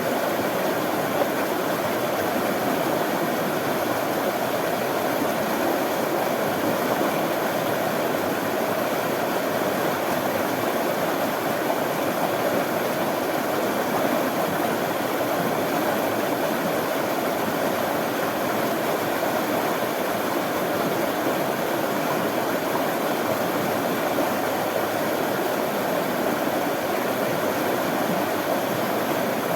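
Running water flowing steadily, a constant rushing noise with no breaks or changes.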